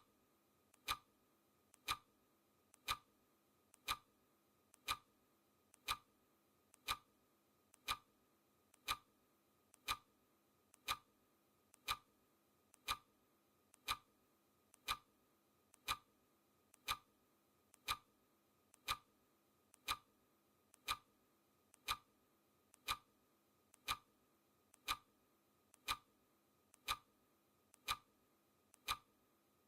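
Clock ticking sound effect, one sharp tick per second, each tick with a faint lighter click just before it, marking a countdown.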